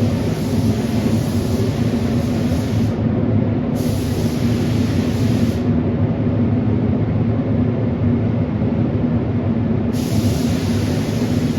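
Air-powered paint spray gun hissing in bursts as the trigger is pulled and released, over a steady low machine drone. The hiss stops briefly about 3 s in, then again for about four seconds before starting up once more near the end.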